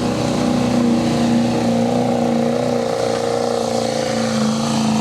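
Pulling truck's engine running hard at high revs, holding a steady pitch that sags slightly about three seconds in, as it pulls the sled.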